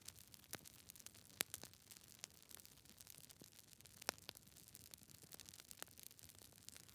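Wood fire in a fireplace crackling: burning logs give irregular sharp pops and snaps over a faint hiss, the loudest about a second and a half in and again about four seconds in.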